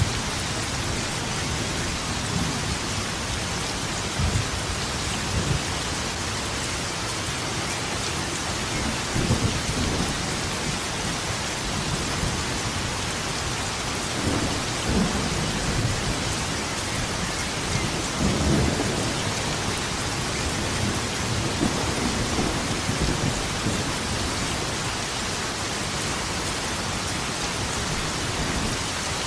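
Steady heavy rain with thunder rumbling low several times, the strongest swells about nine, fifteen and nineteen seconds in.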